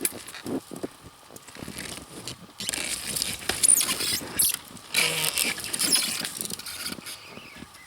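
Bow saw cutting through a frozen fir trunk, a rasping scrape with squeaky, squealing strokes. It is quieter at first and grows louder and busier from about two and a half seconds in.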